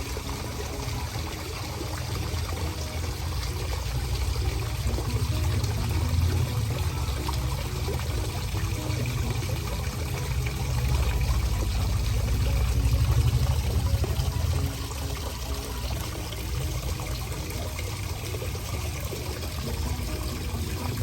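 Water pouring and trickling steadily over a low rumble, swelling louder for a few seconds in the middle and easing back about two-thirds of the way through.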